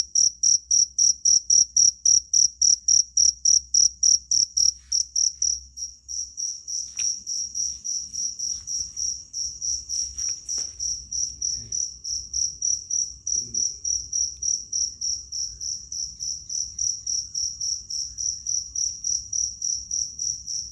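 Cricket chirping in a steady, rapid rhythm of short high-pitched pulses, about four a second, louder for the first five seconds and softer after. A few faint clicks and rustles occur partway through.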